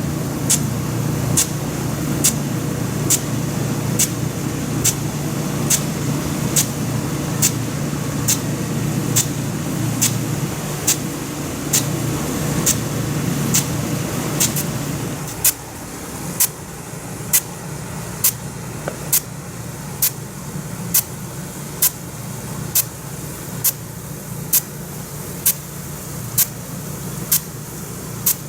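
Nelson F100 Big Gun irrigation sprinkler running: its drive arm snaps back with sharp, regular clicks roughly once a second over the steady hiss of the water jet. A low steady hum drops away about halfway through.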